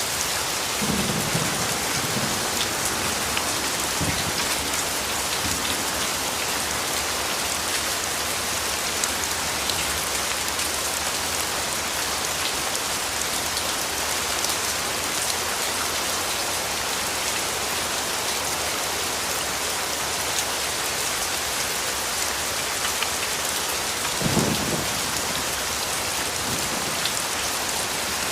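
Steady rainfall with individual drops pattering. A few brief low rumbles of distant thunder come through it, the clearest about three-quarters of the way through.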